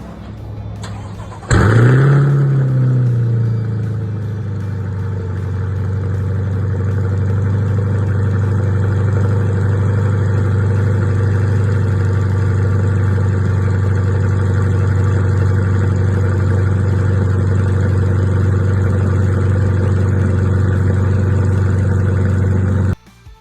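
2020 C8 Corvette's ProCharger-supercharged 6.2-litre V8 starting through a center-exit track exhaust: a short crank, then it catches about a second and a half in with a loud rev flare and settles into a steady, deep idle. The sound stops abruptly near the end.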